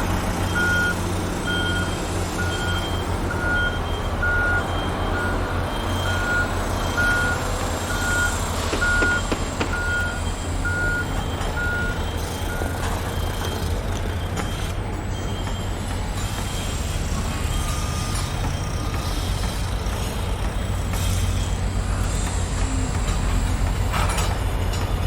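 A heavy vehicle's reversing alarm beeping at an even pace, roughly three beeps every two seconds, over a steady low engine rumble. The beeping stops about halfway through while the engine keeps running.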